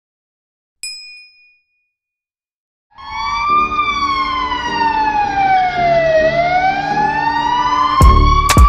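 A single bright chime rings briefly about a second in. From about three seconds an emergency siren wails, its pitch sliding slowly down and then back up, and heavy drum beats join it near the end.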